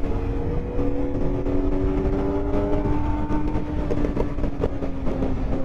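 Sport motorcycle engines running at nearly steady revs under heavy wind rumble on the microphone while riding.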